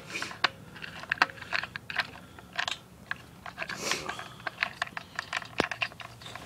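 Irregular small clicks and taps of metal parts and tools being handled, with a few sharper ticks and soft rustles: hands working washers and a nut onto the crankshaft while fitting an impeller.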